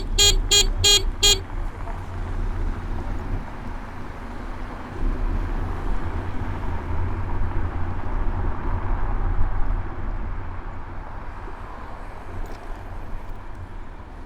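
A horn gives five short, quick toots right at the start, over steady street traffic noise and a low rumble of wind on the bike-mounted microphone.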